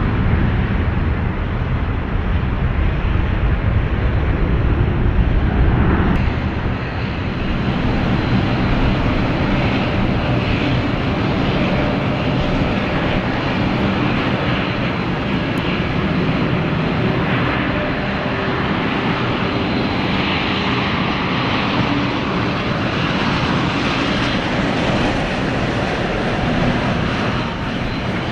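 Airliner engines running close by. A heavy low rumble eases after about six seconds into a steady rushing noise with a faint thin whine on top.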